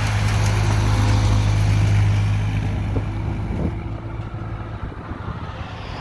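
A vehicle engine running at a steady speed, with road and wind noise over it. The engine note fades about four seconds in.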